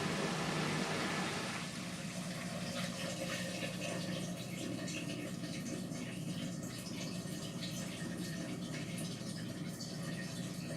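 Indesit MTWC71252WUK washing machine: a steady hiss stops about one and a half seconds in. Then water runs and splashes in the drum with small irregular crackles, as the machine takes in water during its cycle.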